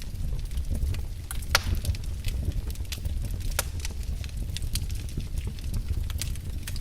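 Wood fire crackling in a fireplace: a steady low rumble of flames with scattered sharp pops and snaps. The loudest pops come about a second and a half in and again about three and a half seconds in.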